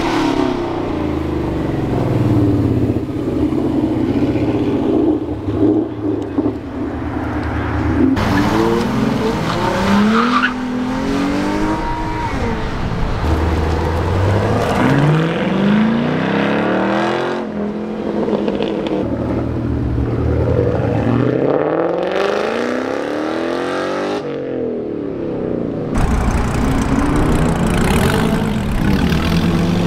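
Cars accelerating hard as they pull away, engines revving up through the gears with the pitch climbing, dropping at each shift and climbing again. The pulls come in separate clips: a Ford Mustang first, then a Chevrolet Caprice sedan, and near the end a Dodge Viper's V10.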